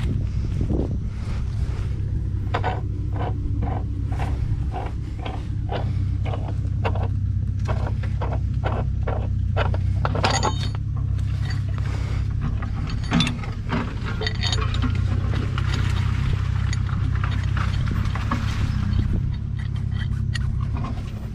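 Diesel engine of farm machinery running steadily at a low drone. About two and a half seconds in, a run of sharp knocks starts, about two a second, and stops around eleven seconds.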